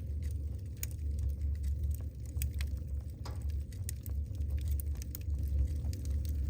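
Wood burning in a fireplace: a steady low rumble of the fire with irregular sharp crackles and pops from the logs.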